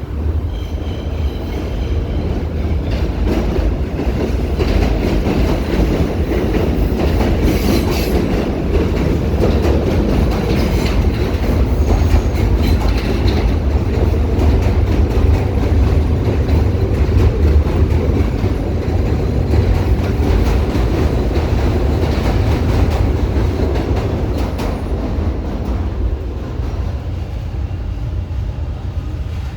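Elevated subway train running past on the overhead tracks: a loud, continuous rumble with rapid wheel clatter on the rails. It swells through the middle and eases off near the end.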